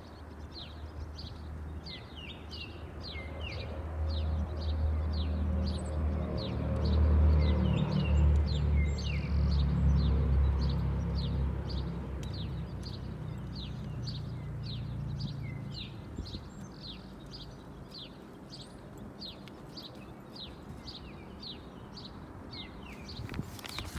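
A bird chirping over and over at an even pace, a few short chirps a second. A low hum swells up through the middle and fades out about two-thirds of the way through.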